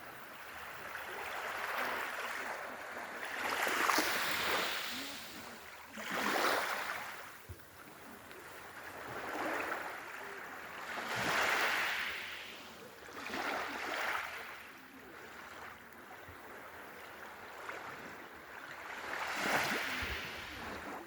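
Sea waves breaking on a beach, a rushing surge of surf every two to three seconds that rises and falls away.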